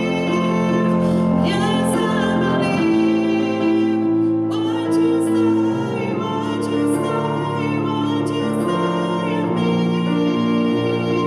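Music: a woman singing a slow gospel song over piano accompaniment, holding one long note about three seconds in.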